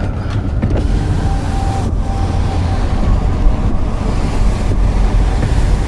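Strong wind buffeting the microphone with a heavy low rumble, in a thunderstorm's gusty wind. Faintly under it, a steady tone of a tornado warning siren sounds for about a second, shortly after the start.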